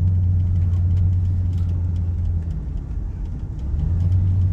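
Snow plow truck's engine running with a steady low drone, easing off for a moment about halfway through and picking up again near the end.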